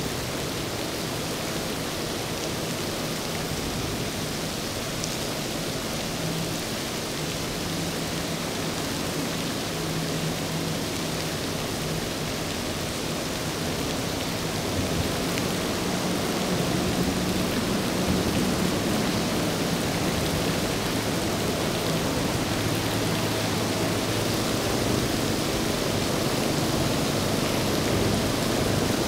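Steady hiss of heavy rain, with the low hum of a passing motorboat's engine underneath, growing stronger from about midway through.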